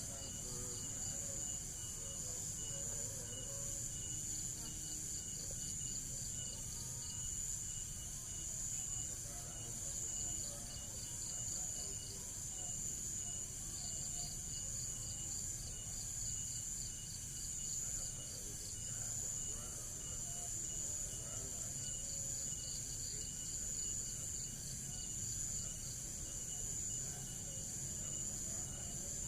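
Insects chirring steadily: a continuous high trill with a second, pulsing trill beneath it, over a low background rumble.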